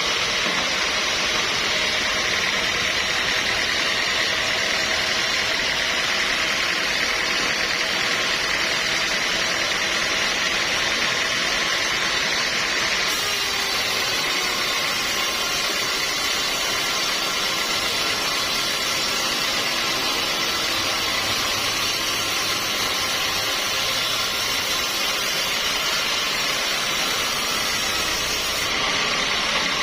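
Sawmill machinery running with a steady, loud mechanical drone and hiss. A higher hiss comes in about halfway through and stops shortly before the end.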